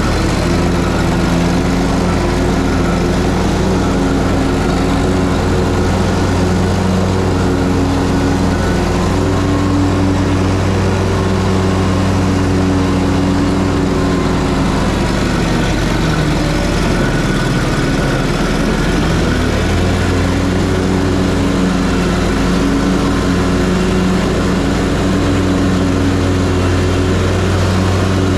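Ferris Z3X zero-turn mower's 37 hp engine running steadily under load while mowing, with its pitch sagging briefly about two-thirds of the way through before recovering.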